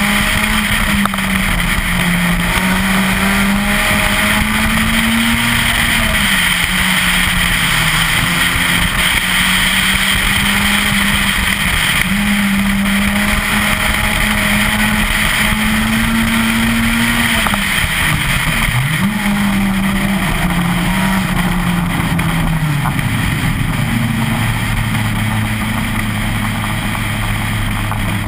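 Citroën Saxo VTS 16V's 1.6-litre 16-valve four-cylinder engine driven hard on a rally stage, its revs rising and falling through the corners. About two-thirds of the way through there is a quick drop and recovery. Near the end the note settles lower and steady, over a constant rush of road and wind noise.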